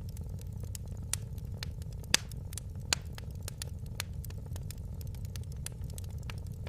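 Wood fire crackling: irregular sharp pops and snaps, the loudest about two seconds in, over a steady low rumble of the burning fire.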